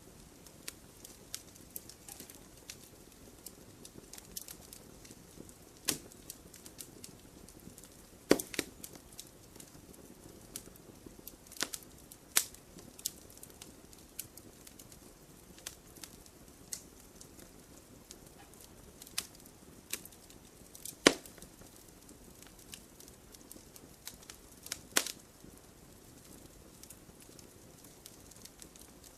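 Wood campfire crackling: irregular sharp snaps and pops over a low steady hiss, with a handful of louder pops scattered through.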